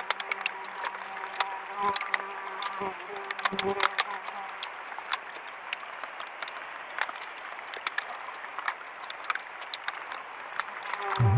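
Rain pattering on lake water and a wooden canoe, a dense run of small sharp drop ticks, while an insect buzzes close by for the first few seconds and again near the end. A few dull knocks come around two to four seconds in as the canoe is paddled.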